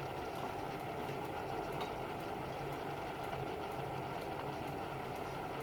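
Steady mechanical hum with an even rushing noise underneath, holding level with no distinct knocks or clicks.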